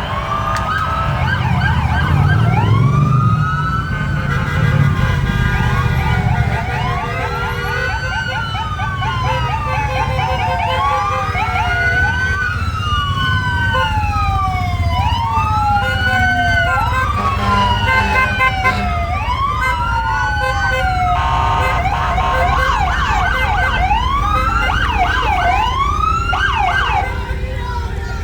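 Several emergency-vehicle sirens wailing together, their rising-and-falling tones overlapping out of step, over the low rumble of fire truck engines. About three quarters of the way in, the cycles speed up into a quicker yelp.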